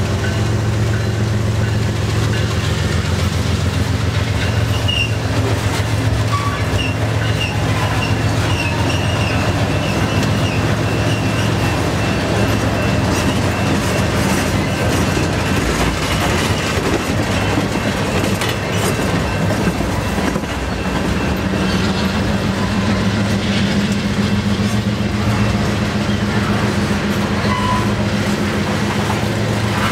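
Freight train tank cars rolling past close by: a steady rumble and clatter of steel wheels on rail, with a faint high wheel squeal a few seconds in.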